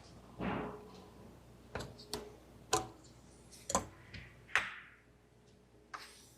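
Irregular sharp clicks and knocks, about six spread over a few seconds, from hand work on car engine parts and wiring, with a short rustle just after the start.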